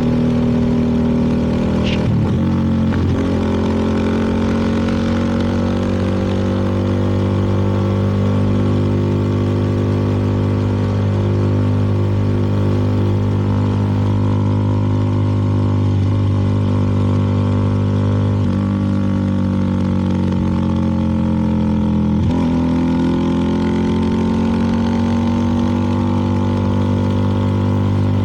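CFMoto 300NK motorcycle's single-cylinder engine running at road speed, steady for most of the stretch. There is a sudden change in pitch about two seconds in. Later the pitch eases down, breaks sharply, then climbs again near the end.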